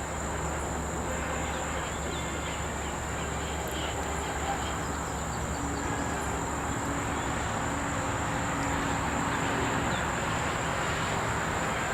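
Outdoor background: a steady low rumble that grows slowly louder, under a constant high-pitched drone of insects.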